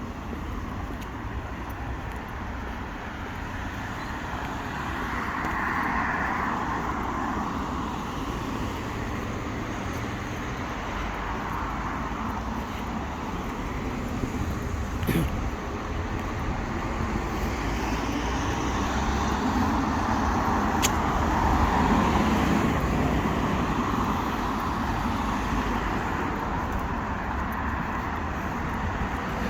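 Street traffic: cars passing, the noise swelling and fading twice, with a sharp click about halfway through.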